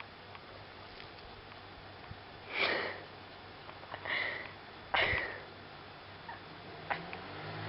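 A cat giving three short, sharp sniffs a second or so apart, starting about two and a half seconds in.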